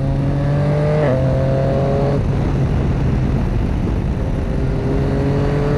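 Yamaha Tracer motorcycle engine running on the move under heavy wind rush. The engine note shifts at a gear change about a second in. It fades into the wind at about two seconds, then comes back slowly rising near the end.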